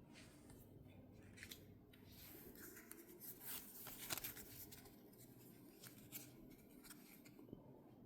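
Faint rustling and scattered clicks of Pokémon trading cards and booster-pack wrappers being handled, with the busiest handling around the middle.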